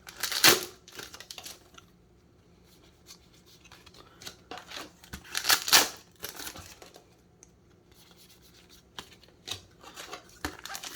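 Foil booster-pack wrappers and trading cards being handled: two short rustling bursts, one about half a second in and one about halfway through, with light rubbing and clicking of cards in between.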